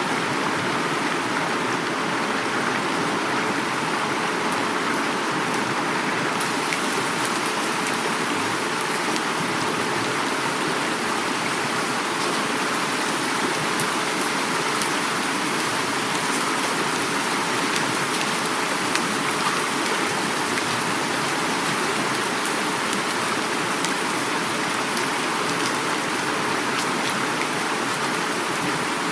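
Heavy rain falling steadily, mixed with the rush of a flowing river, with scattered individual drops ticking through the even hiss.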